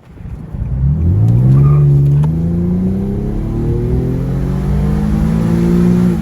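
Nissan VQ-series V6 accelerating under throttle. The pitch rises quickly about a second in, then climbs steadily for about five seconds, and the sound drops away suddenly near the end.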